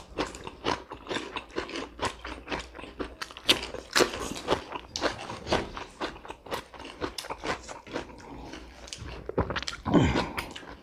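Close-miked chewing and crunching of food, with many small wet mouth clicks. A louder sip from a drink comes near the end.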